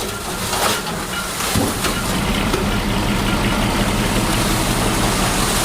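Diesel engine of heavy earthmoving machinery running steadily, with a few short knocks and clanks of metal.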